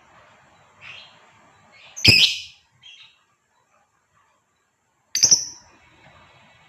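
Female lovebird giving short, harsh, shrill calls: a faint one near the start, a loud one about two seconds in, a short one just after, and another loud one about five seconds in. These are the female's calls to a male.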